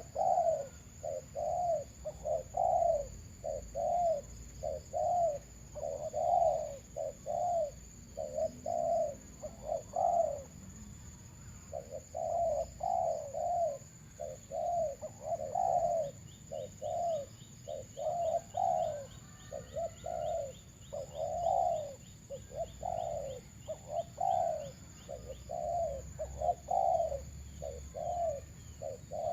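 Dove cooing: a long run of short, repeated coos, about two a second, with a brief break about a third of the way in. Faint high chirping from another bird comes in the second half.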